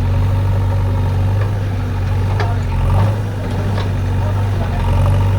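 Heavy diesel engine idling steadily, with a few faint clicks.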